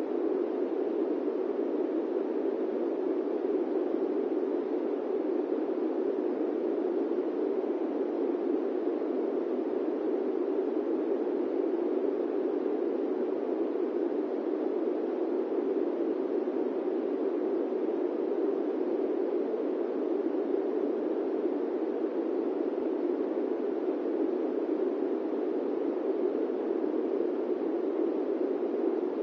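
Steady airplane-cabin white noise: an even, unchanging rush with most of its weight low, around the pitch of a cabin drone, with no tones or events in it.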